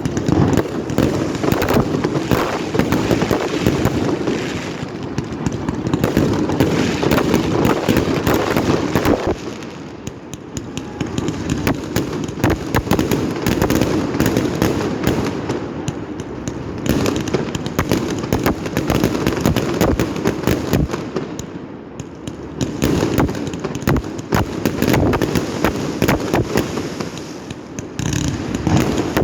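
Fireworks display: a dense, continuous barrage of bangs and crackling, easing off briefly about ten seconds in and again a little after twenty seconds.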